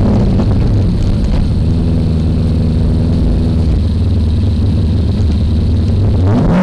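V8 engine of a BMW E30 drift car, heard from onboard, running at steady low revs with a deep rumble. The revs start to swing up again right at the end.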